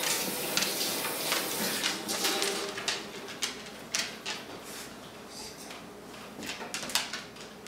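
Irregular plastic clicks and knocks from a Fisher-Price Rainforest Jumperoo as a baby bounces in it, with a hiss in the first couple of seconds.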